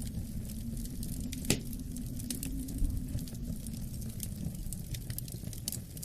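Wood fire crackling in a fireplace, with frequent small pops and one sharper crack about a second and a half in, over a steady low rumble of wind.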